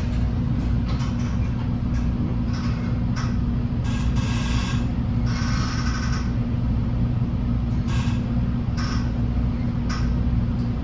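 Inside an NJ Transit Multilevel rail coach running at speed: a steady low rumble of wheels on rail with a constant hum beneath, and several brief hissing rushes coming and going.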